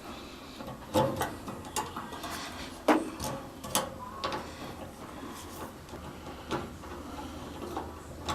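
Irregular clicks and light metallic knocks of tools and metal parts being handled during reassembly, with the loudest knocks about a second and three seconds in.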